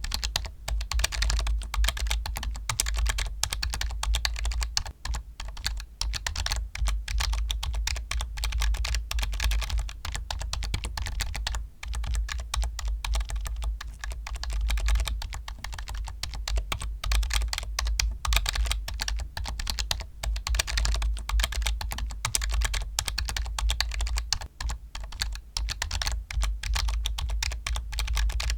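Continuous fast typing on a computer keyboard: a dense stream of key clicks, with a few brief pauses.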